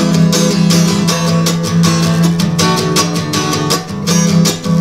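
Acoustic guitar strummed in a steady, even rhythm, an instrumental passage of the song with no vocals.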